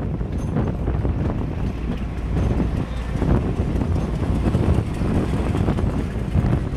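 Wind buffeting the microphone held at the open window of a moving passenger train, over the steady rumble of the train running along the track.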